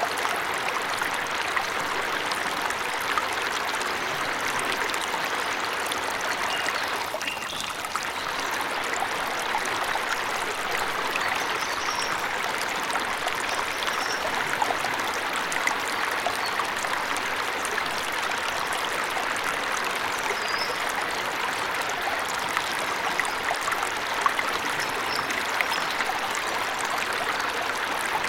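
Water of a forest waterfall splashing and rushing steadily, with a few faint, short high bird chirps now and then.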